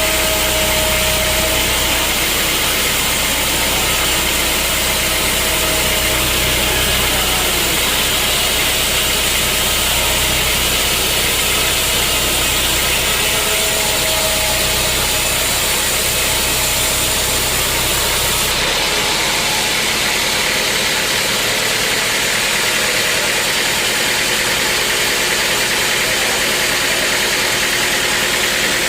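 Sawmill machinery running steadily with a dense mechanical noise; about two-thirds through the sound changes abruptly as the low hum drops away.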